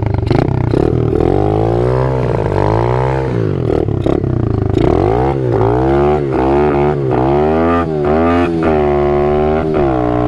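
Apollo 125 RFZ dirt bike's single-cylinder four-stroke engine being ridden and revved, its pitch falling and climbing again over and over, about once a second.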